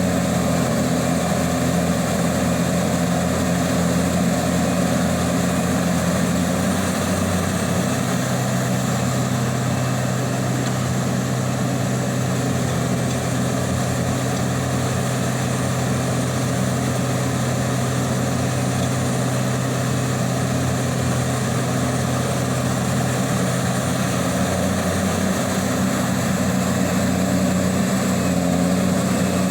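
Heavy diesel machinery engine running steadily. Its note changes about seven seconds in, when a lower hum comes in, and returns near the end.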